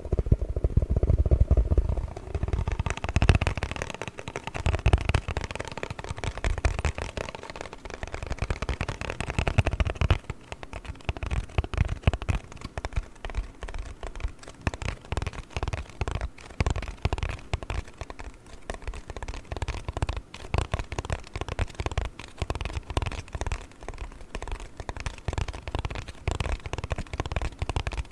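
Rapid tapping on a cardboard box: a dense run of dry taps and crackles. About ten seconds in, the taps turn lighter, with less low thump.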